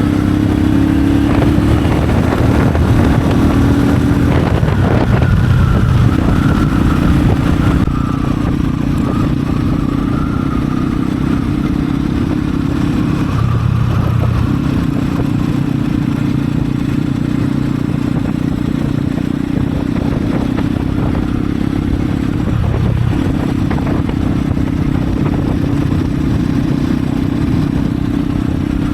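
Kengo Classic 400cc motorcycle's exhaust running steadily on the move, with brief dips in the engine note about five, thirteen and twenty-two seconds in.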